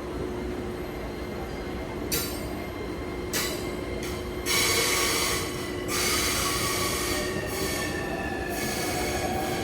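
Shonan-Shinjuku Line commuter train moving along a station platform, its wheels squealing on the rails in several loud bursts from about two seconds in. A motor whine rises in pitch near the end.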